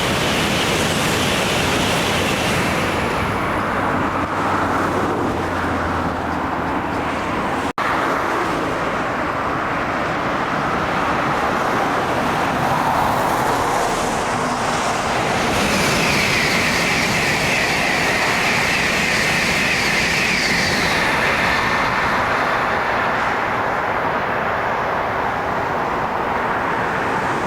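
Shinkansen train passing at high speed, a steady rushing noise, mixed with road traffic from the nearby highway. About eight seconds in the sound cuts out for an instant.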